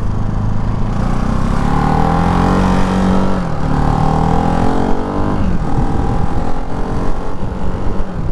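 Ducati Hypermotard 698 Mono's single-cylinder engine pulling under acceleration, its pitch climbing and then dropping sharply at an upshift about three and a half seconds in, climbing again and dropping at a second upshift about five and a half seconds in, then running steadier.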